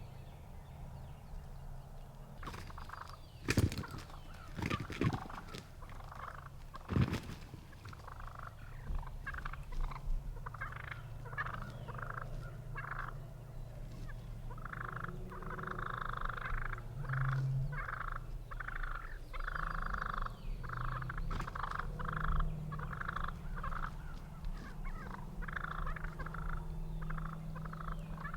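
Wild turkey toms gobbling and calling: three loud gobbles in the first seven seconds, then a long run of short, repeated calls.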